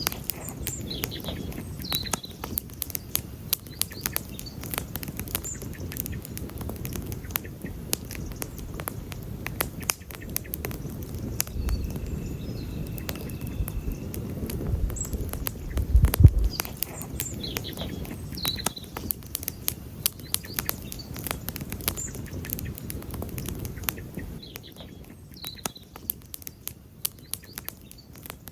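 Wood campfire crackling and popping with many sharp irregular snaps over a low rush of flames, which swells briefly just past the middle.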